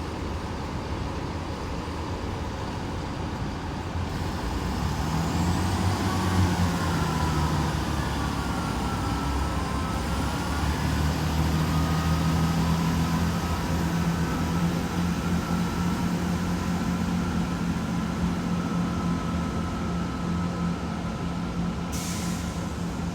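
Class 166 Turbo diesel multiple unit passing through non-stop, its diesel engines running steadily with a whine that rises, dips and rises again. A short hiss comes near the end.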